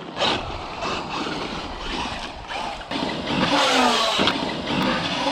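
Traxxas UDR RC truck driving on dirt: its electric motor whine rising and falling in pitch with the throttle, over tyre and dirt noise and a few knocks.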